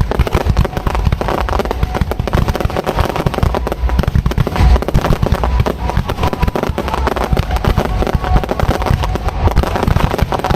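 Fireworks display heard at close range: a dense, unbroken barrage of rapid bangs and crackling over deep booms.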